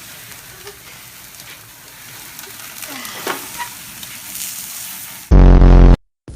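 Food sizzling and frying in a pan, with faint stirring clicks. Near the end a sudden, very loud buzzing tone sounds for under a second, then cuts off.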